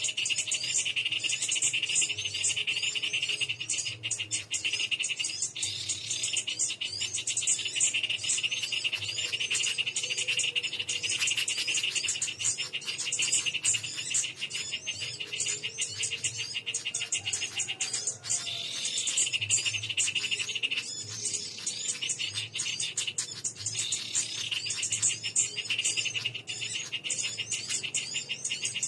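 Dense chorus of buzzing insects, cicadas or crickets, pulsing rapidly and steadily, with busy high-pitched chirping over it.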